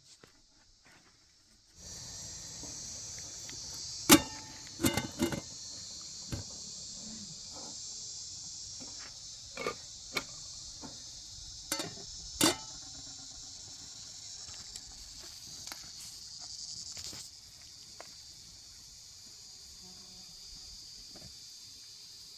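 Crickets chirring in a steady high-pitched drone that stops abruptly near the end, with a few sharp knocks and clicks scattered through it, the loudest one about four seconds in.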